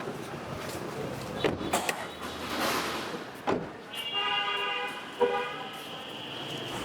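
Sharp clicks and knocks of a car's bonnet being released and raised, then a vehicle horn sounding one steady note for about a second and a half.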